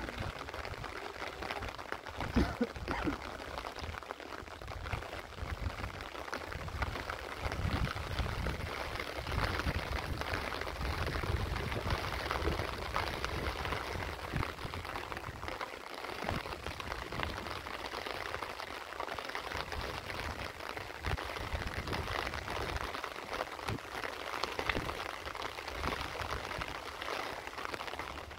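Steady rain falling, a dense patter of drops without a break, with irregular low rumbles underneath.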